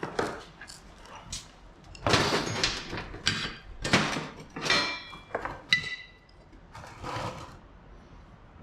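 Irregular metallic clanks, scrapes and rattles of tools and steel suspension parts being handled, a couple of the strikes ringing briefly about halfway through.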